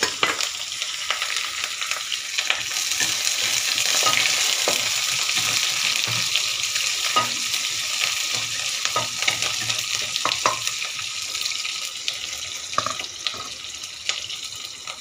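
Sliced onions and curry leaves sizzling in hot oil in a non-stick wok, stirred with a spatula that scrapes and knocks against the pan now and then. The sizzle eases off a little near the end.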